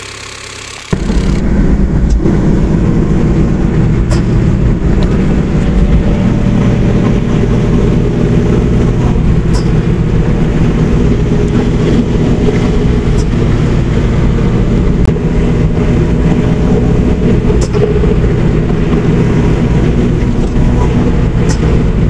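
Honda Civic's 1.8-litre R18 four-cylinder engine and road noise heard inside the cabin, cruising steadily at about 108 km/h. The sound comes in about a second in and holds steady throughout.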